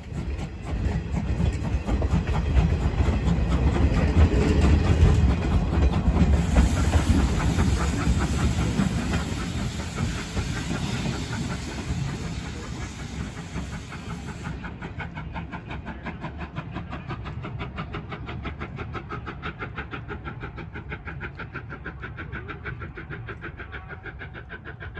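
Passenger train hauled by the C12 66 steam tank locomotive rolling past, its coach wheels clattering over the rails in a steady rhythm. Loudest in the first half, then fading steadily as the train draws away.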